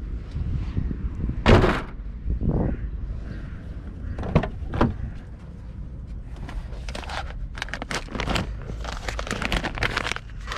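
Steady low rumble of street traffic, with scattered knocks and crackling handling noises that bunch together in a quick run near the end.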